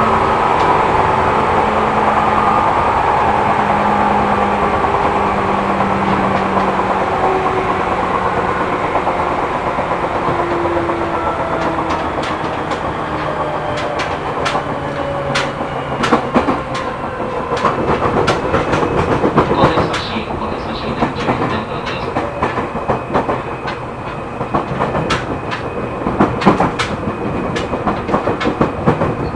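Seibu New 2000 series electric train running, heard from inside the car. At first its motor tones drift lower as it slows. From about halfway, the sharp clatter of wheels over rail joints and points grows denser and louder.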